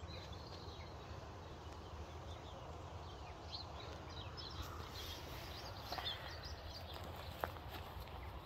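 Small birds chirping, most busily from about three to six seconds in, over a low steady rumble.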